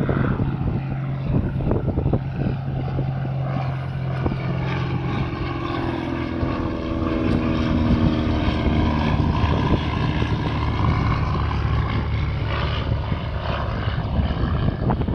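Single-engine propeller plane making a low flypast, its engine and propeller droning with the pitch falling as it goes by. Wind buffets the microphone.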